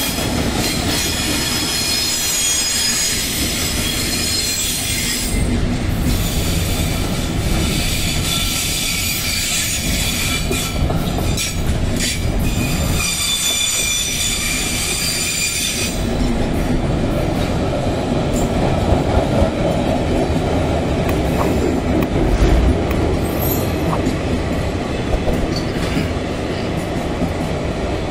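Freight train wagons rolling past, their wheels squealing high on the rails for roughly the first half, then a steady rumble with scattered clicks of wheels over rail joints.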